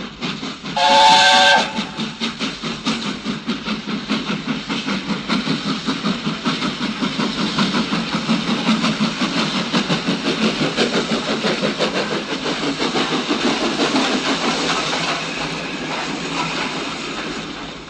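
A steam locomotive departing: a short blast on its whistle about a second in, then the engine chuffing away, its exhaust beats coming faster and louder as it gathers speed.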